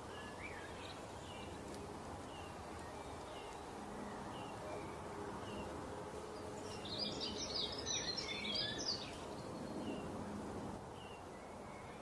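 Small birds chirping over a steady background hiss: a short high chirp repeats about once a second, and a burst of busier twittering comes about seven to nine seconds in.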